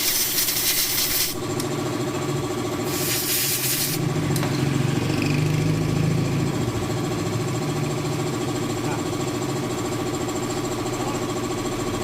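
An engine running steadily at idle, with two loud hisses of air, the first at the start lasting about a second, the second about three seconds in lasting about a second, then a single click.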